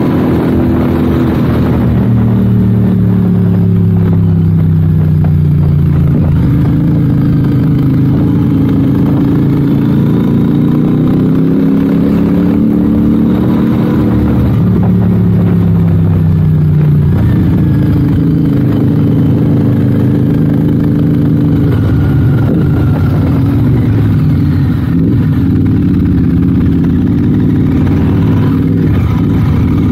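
Royal Enfield 650 parallel-twin motorcycle engine running under way, its pitch falling and rising several times as the rider eases off and opens the throttle through the bends.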